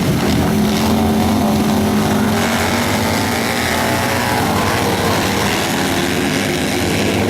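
Hooligan-class racing motorcycles, their big twin-cylinder engines running hard together, several overlapping engine notes rising and falling as the riders rev and shift.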